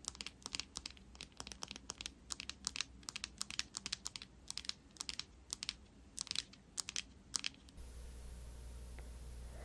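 Rapid, irregular crisp clicks and taps, several a second, close to the microphone, stopping about eight seconds in, after which only a steady hiss and low hum remain.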